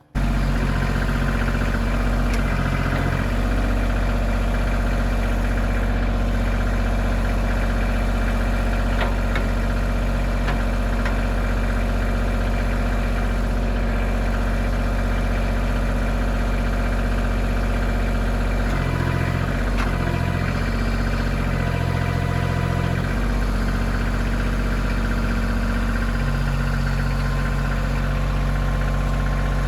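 Kioti CK2620 compact tractor's diesel engine running steadily, its note shifting up and down for a few seconds about two-thirds of the way through.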